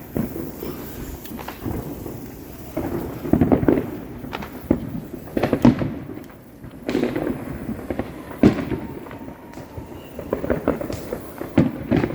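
Neighbourhood fireworks going off: repeated sharp bangs and crackling in clusters every second or two.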